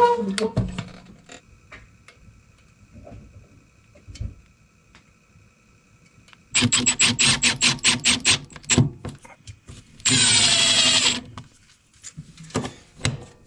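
Power drill working in two bursts: first a fast run of clicking pulses for about two seconds, then after a short pause a steady one-second run of the motor with a high whine.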